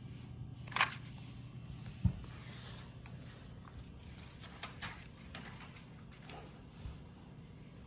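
Handling of ceiling fan parts and packaging: scattered clicks and light knocks, a brief rustle, and a dull thump about two seconds in, over a steady low hum.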